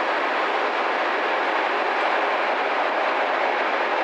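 Passenger train coaches rolling steadily past a station platform, with a continuous even noise of wheels running on the rails.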